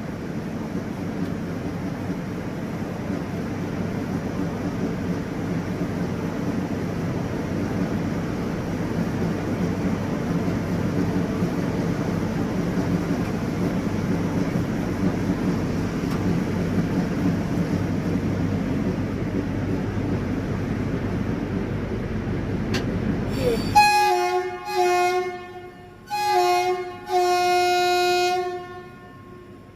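WAG-9 electric locomotive and train running with a steady rumble that slowly builds. The rumble cuts off abruptly about 24 seconds in, and four locomotive horn blasts follow, two short and two longer, the last one longest.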